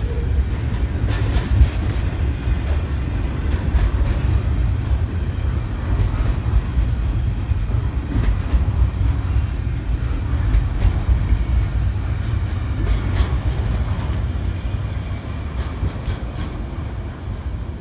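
BNSF intermodal freight train's double-stack container cars rolling past: a steady low rumble with scattered wheel clicks from the track. It eases off slightly near the end.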